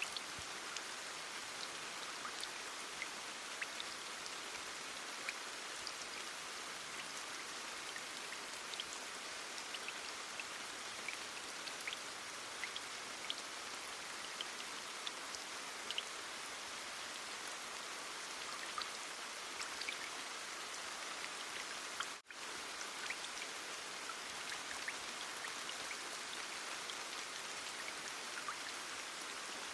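Steady heavy rain, an even hiss with scattered individual drops tapping through it. The sound cuts out for an instant about two-thirds of the way through.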